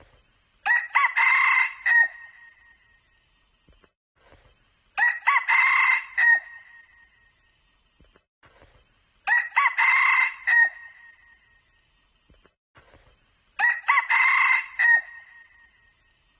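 Red junglefowl cock crowing four times at even intervals, about every four seconds, each crow short and clear.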